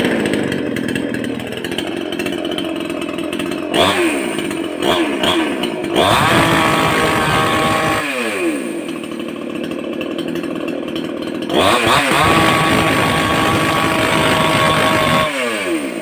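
Capital Tools 22-inch gasoline chainsaw's two-stroke engine running: it idles, revs up about four seconds in and holds high speed for a couple of seconds, drops back, then revs up again around twelve seconds and holds before falling back near the end.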